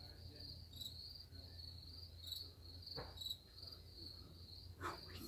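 Crickets chirping steadily in a faint, high-pitched pulse of about three chirps a second, over a low hum. A couple of soft knocks come about three seconds in and near the end.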